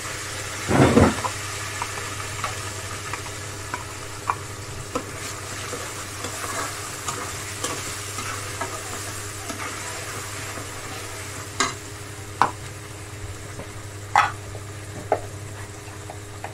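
Ground wet masala paste hitting hot oil in a kadai with a loud sizzle about a second in, then steady sizzling as it is stirred in with a metal slotted spatula. Several sharp clinks of the spatula against the pan come in the last few seconds.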